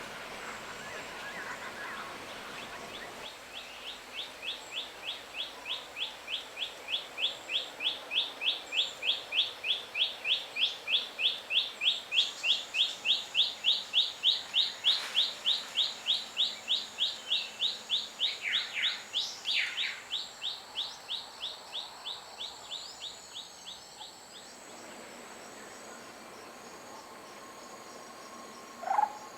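A bird calling a long series of evenly repeated short high notes, about three a second, that swell louder and then fade away over some twenty seconds, with a few brief other calls partway through and a short call near the end.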